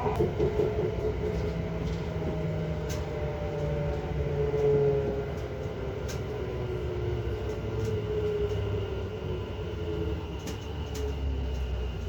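Electric passenger train running, its motor whine falling slowly in pitch over several seconds as the train slows, over a steady rumble of the carriage with a few faint clicks.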